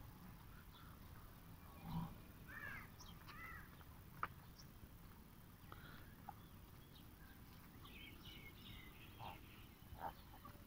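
Faint, scattered bird chirps over quiet outdoor background noise, with a cluster of short calls about three seconds in and more near the end.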